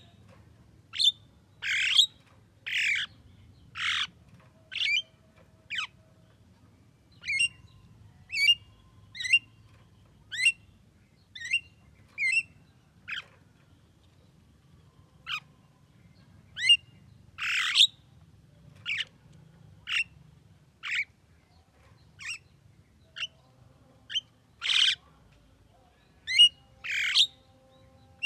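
Javan myna calling: a string of harsh squawks mixed with short, thin whistled chirps, roughly one call a second, with a brief pause midway.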